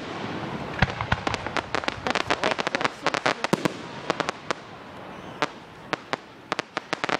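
Fireworks going off: a low boom about a second in, then a long run of rapid sharp crackling pops that thins out after about four seconds and picks up again near the end.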